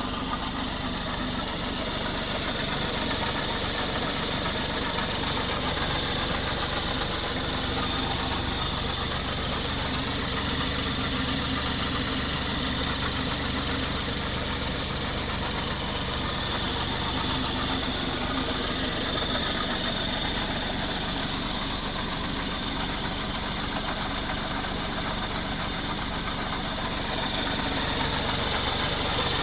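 BMW X4 30i (G02, 2019) turbocharged 2.0-litre four-cylinder engine idling steadily at standstill, an engine noise that its owner, after a coolant loss, is unsure is normal.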